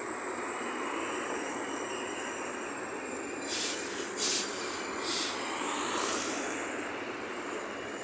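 A Trenitalia Tper 'Rock' double-deck electric train passing close by: a steady rushing rumble of wheels on rail. About halfway through come three short, sharp, high-pitched bursts, the second the loudest.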